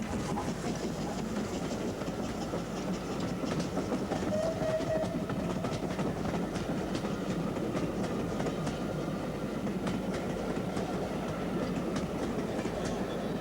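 Great Central 'Director' class 4-4-0 steam locomotive Butler Henderson running with its train, the wheels clicking steadily over the rail joints under a continuous rumble. A brief tone is heard about four and a half seconds in.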